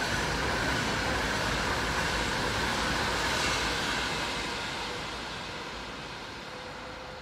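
Avanti West Coast Class 390 Pendolino electric train running through the station. It gives a steady rush of wheel and rail noise that begins to fade about four seconds in as the train draws away.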